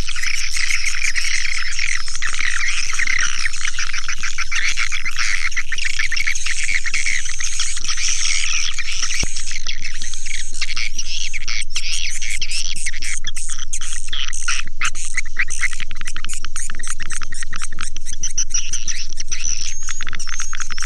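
Swiftlet calling sound of the kind played to lure swiftlets: a loud, dense, unbroken chatter of high twittering chirps. From about halfway through it turns into a rapid, even train of short clicks mixed with the chirps.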